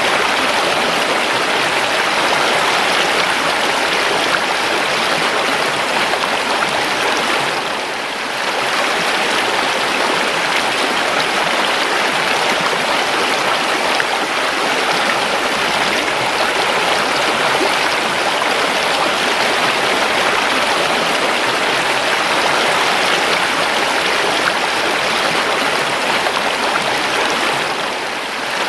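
A river flowing: a steady rush of running water, easing off briefly about eight seconds in and again near the end.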